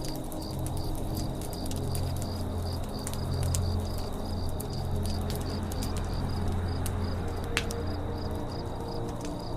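Campfire crackling with frequent small pops and one sharper pop about three quarters of the way through. Crickets chirp steadily behind it, about three chirps a second.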